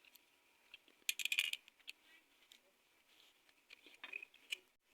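Small metal engine parts clicking and clinking as they are handled during engine assembly, in a short cluster about a second in and another near the end.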